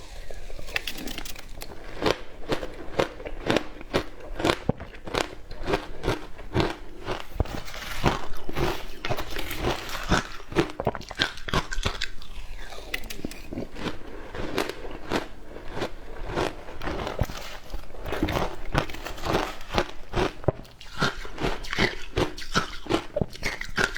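Hard frozen matcha ice being bitten and chewed, giving a continuous run of sharp, irregular crunches.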